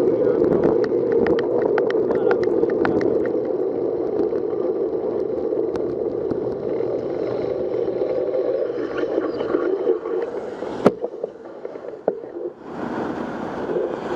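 Wind rushing over the microphone with wet-road noise from a bicycle riding in the rain, with scattered small clicks; the rush dies down about eleven seconds in as the bike comes to a stop, marked by one sharp click.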